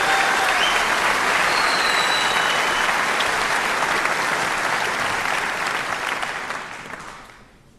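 Audience applauding, then dying away over about a second near the end.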